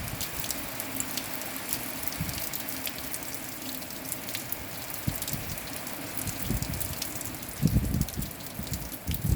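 Steady rain falling, with many separate drops ticking on a surface close by. Near the end, gusts of wind buffet the microphone twice in low rumbling surges.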